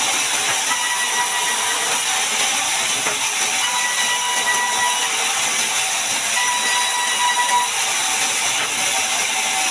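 Sawmill bandsaw cutting through a large mahogany log: a steady, high hiss with a thin whine that comes and goes.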